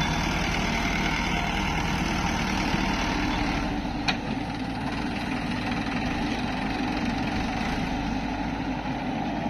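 Heavy diesel engine running steadily, its note shifting slightly about four seconds in, with one sharp metallic click at about the same point.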